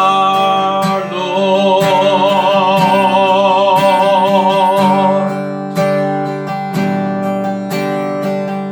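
Strummed acoustic guitar under a singer's long held note with vibrato. The note stops about five seconds in, and the guitar strumming carries on, fading as the song closes.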